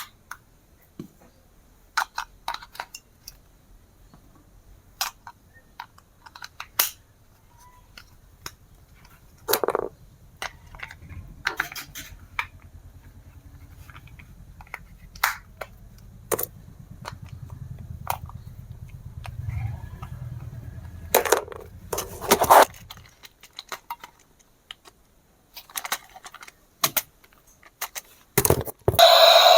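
Scattered sharp clicks and taps of plastic toys or packaging being handled. A low steady hum runs underneath from about a quarter of the way in until about three quarters through.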